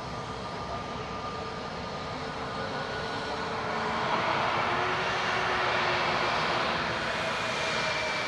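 Turbofan engines of an Airbus A320neo (A320-251N, CFM LEAP-1A engines) running with a steady whine over the engine noise, growing louder about four seconds in.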